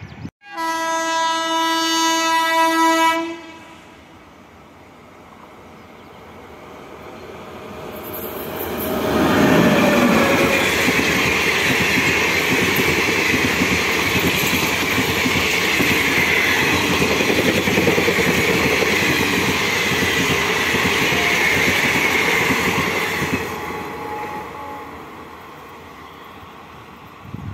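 Train horn sounding one long blast of about three seconds. Several seconds later a passenger express passes close at speed: a loud, steady rush of wheels on rail and coaches going by, with rapid wheel beats, that fades away as the train recedes.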